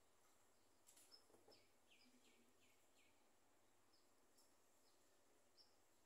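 Faint, high bird chirps, with a quick run of four short falling notes about one and a half seconds in and a couple of soft clicks just before them.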